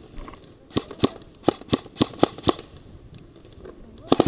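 Airsoft guns firing: about seven single shots in a little under two seconds, then a rapid full-auto burst starting near the end.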